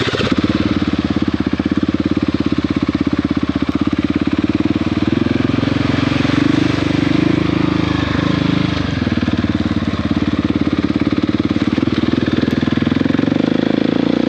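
Motorcycle engine running steadily under way, its rapid firing pulses and engine note holding an even pitch with small changes in load midway.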